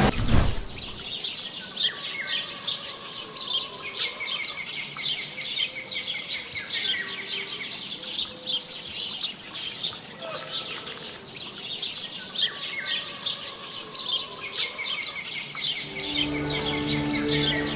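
Small birds chirping, many short high chirps in quick succession. Soft music with held notes comes in near the end.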